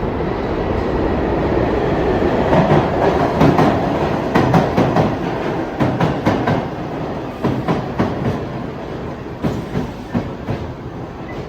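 New York City subway 3 train pulling into the station: a swelling rumble, then its wheels clacking over the rail joints, the clacks spacing out as the train slows.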